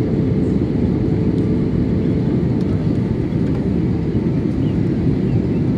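Steady low rumble of an airliner cabin on descent: engine and airflow noise, with a faint steady hum that fades out a few seconds in.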